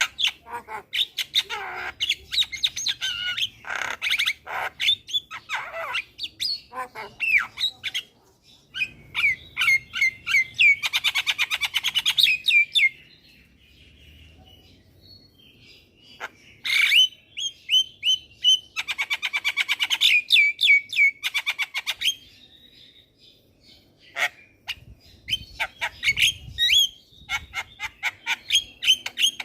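Javan myna singing: bursts of chattering and squawking calls mixed with fast rattling trills, broken by short pauses about 13 seconds in and again about 22 seconds in.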